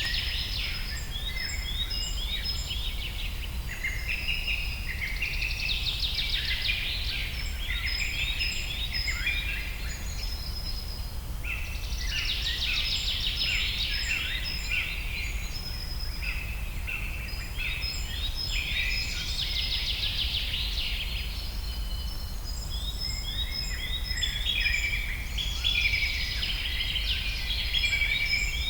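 A flock of birds chirping and twittering together in busy high-pitched waves that swell every few seconds, with short repeated high notes throughout, over a steady low hum.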